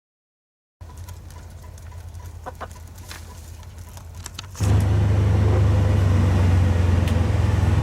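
A few faint short clicks, then about four and a half seconds in a loud, steady, low engine drone starts suddenly and keeps running.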